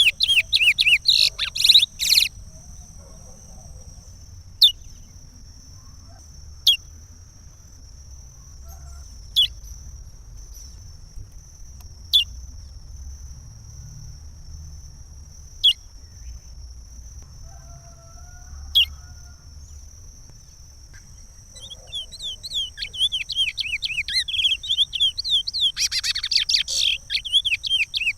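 Curió (chestnut-bellied seed finch) singing its Pará regional song. A quick warbled phrase ends about two seconds in, then come single sharp notes every two to four seconds, and a longer, louder song phrase starts after about 21 seconds.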